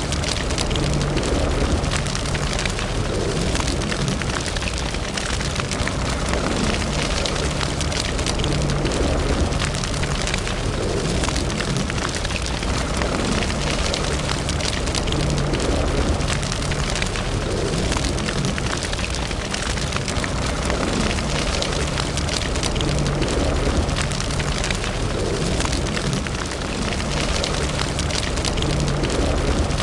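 Wood fire burning in a fireplace, crackling steadily with many small pops over a low rumble of flame.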